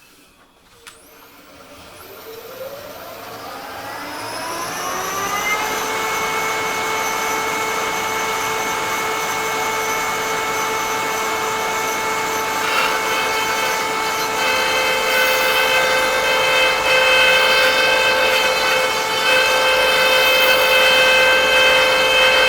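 Electric motor on a woodturning threading setup spinning up, its whine rising in pitch over the first few seconds, then running at a steady speed. About two-thirds of the way through it gets a little louder and fuller.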